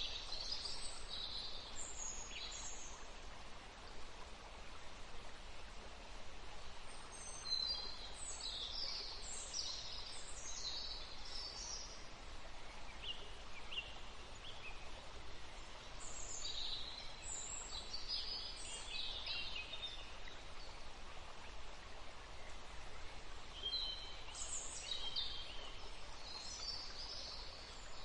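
Outdoor ambience: a steady background hiss with small birds chirping in several short bouts of quick high calls.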